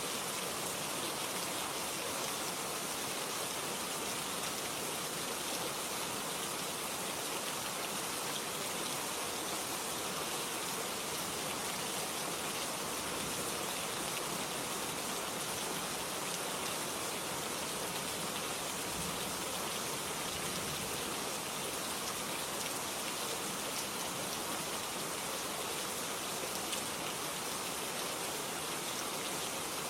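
Steady rain falling, an even hiss of rainfall with no break or change.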